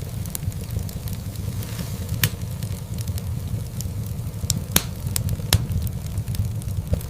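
Wood fire burning in a fireplace: a steady low rumble of flames with scattered sharp crackles and pops from the burning logs. The loudest pops come a little before and just after five seconds in.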